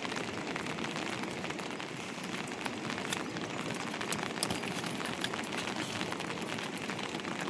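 Heavy monsoon rain falling steadily: an even hiss dotted with sharp ticks of single drops.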